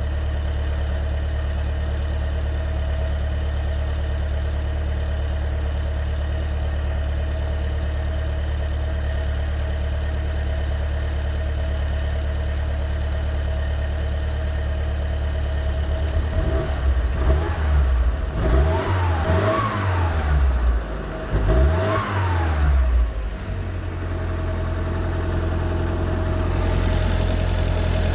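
Pinzgauer engine idling steadily, then revved up and down several times in the second half, with two highest peaks, before settling back to idle. The exhaust manifold joint has just been resealed with a new gasket and studs to cure a leak.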